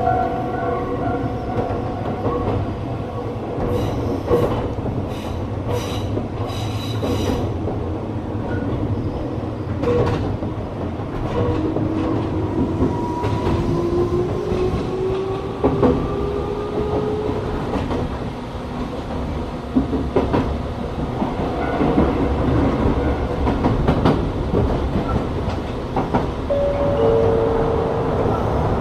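Gakunan Railway electric train running along the line: steady low running noise with wheels clicking over rail joints, and a whine that rises in pitch in the middle.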